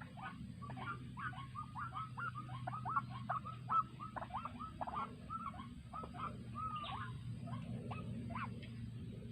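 White-breasted waterhen (ruak-ruak) calling: a fast run of short, hooked, repeated notes that crowds together in the first half, then slows to scattered single calls.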